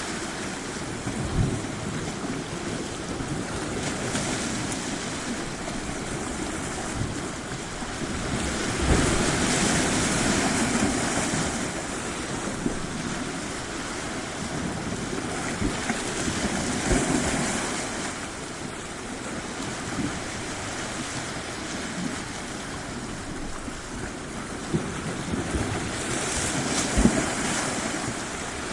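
Sea waves washing onto a shore as a steady rush, swelling louder three times as bigger waves break.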